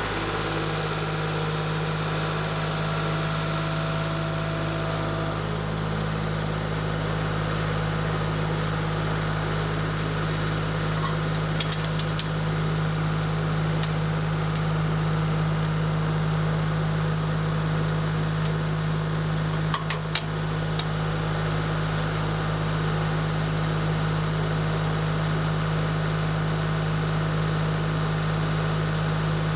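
An engine idling steadily, a constant low hum, with a few faint clicks about twelve and twenty seconds in.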